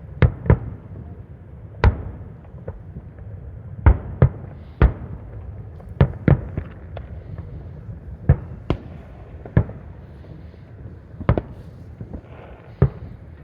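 Fireworks bursting: more than a dozen sharp bangs at irregular intervals, some in quick pairs, over a steady low rumble.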